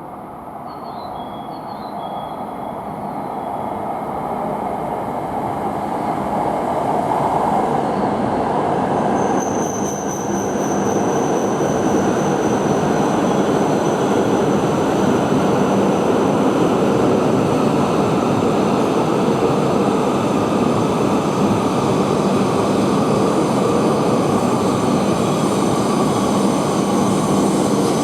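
Tohoku Shinkansen train pulling into the station platform. It grows steadily louder over the first ten seconds, then holds as a loud steady rumble with a thin, high steady whine from about ten seconds in.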